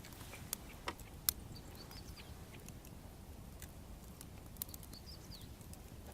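Wood fire crackling, with sharp, irregular pops and snaps. Faint bird chirps come twice in the background.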